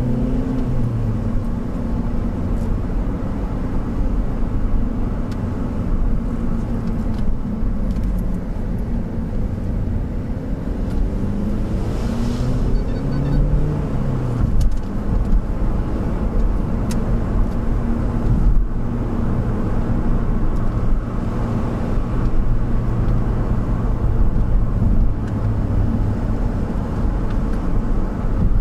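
Vehicle engine and road noise heard from inside the cab while driving. The engine note rises and falls with acceleration and gear changes, clearest near the start and about halfway through.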